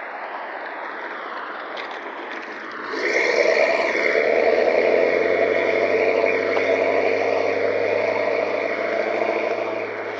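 A motor vehicle running close by, rising in about three seconds in over a steady hiss and holding for several seconds before easing off near the end.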